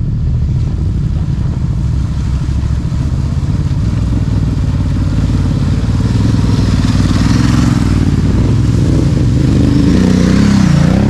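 Adventure motorcycle engines running at a creek crossing, as a rider rides through the water. A hiss of splashing builds in the second half, and the engine note shifts near the end.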